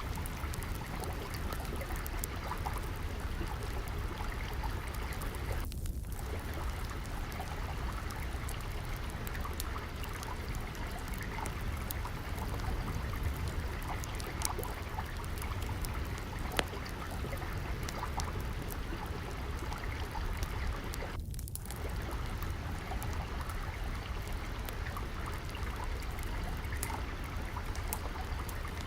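Steadily flowing, trickling water mixed with the scattered pops and snaps of a crackling wood fire. The water sound briefly dips twice.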